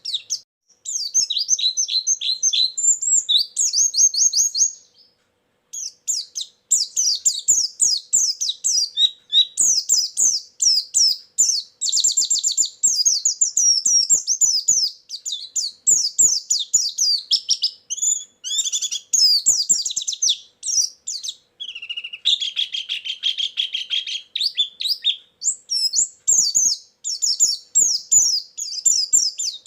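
White-eye (pleci) song: fast, high-pitched twittering and chirping phrases packed closely together, with a brief pause about five seconds in. Around three quarters of the way through, a lower run of rapidly repeated trilled notes.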